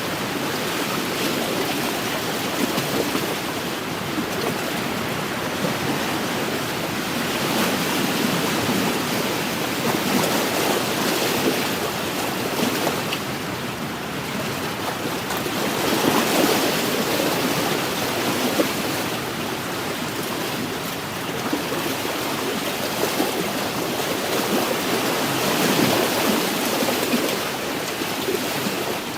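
Small wind-driven waves washing against a lakeshore, a steady wash that swells and eases every few seconds, with wind blowing.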